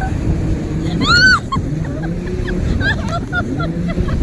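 Jet ski engines running, their pitch rising and falling in slow swells as the throttle is worked. A single high, arching whistle-like call sounds over them about a second in.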